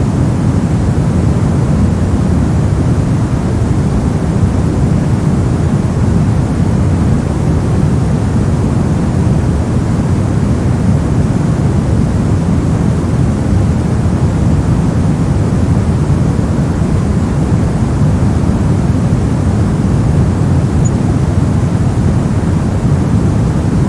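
Steady generated noise from a white-noise sleep track: an even, deep rushing with most of its weight in the low end, unchanging throughout.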